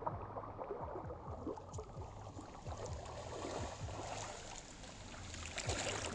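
Flowing river water gurgling and lapping, with many small irregular splashes.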